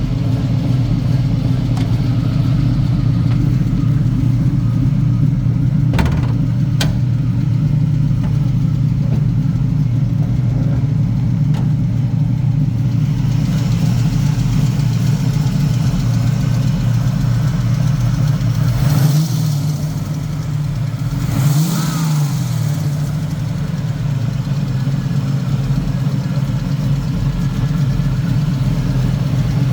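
A 1969 Chevrolet Camaro's 383 V8 idling steadily, revved briefly twice about two-thirds of the way through, each time rising in pitch and settling back to idle.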